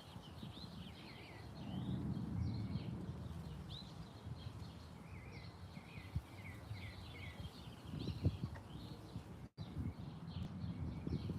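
Several small songbirds chirping and twittering busily in a garden, over a low rumble with occasional knocks. The sound cuts out for an instant about nine and a half seconds in.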